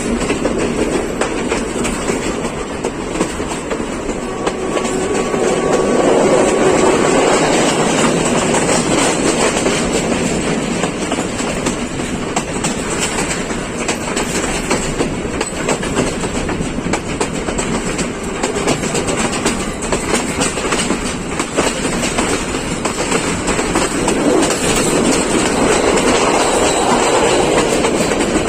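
Passenger train running on the line, wheels clattering over the rail joints under a steady rumble of the carriage, swelling louder a few seconds in and again near the end.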